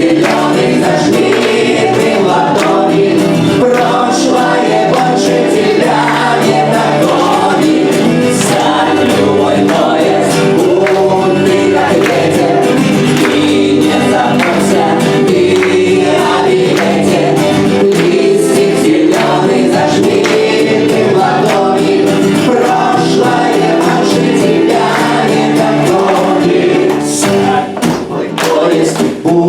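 A group of voices singing a bard song together in chorus, over musical accompaniment, with a short dip in loudness near the end.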